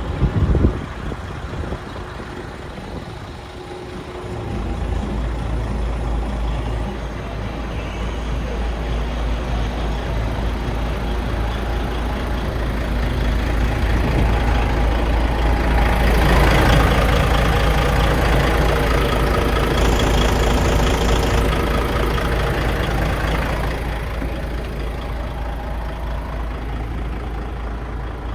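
Heavy truck diesel engine of a DAF CF 85.360 running steadily, with a short knock near the start. It grows louder and noisier for several seconds in the middle before settling back.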